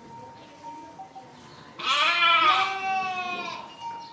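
A sheep bleating: one long, loud baa starting a little under two seconds in.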